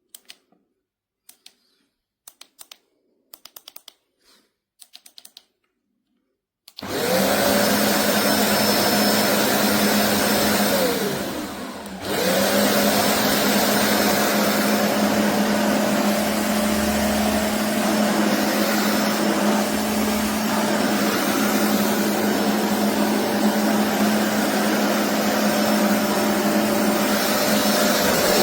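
A few faint clicks, then a BISSELL Revolution HydroSteam carpet cleaner's suction motor switches on, spinning up with a rising whine and running loud and steady. About five seconds later it winds down with a falling whine and is started again, rising back to speed.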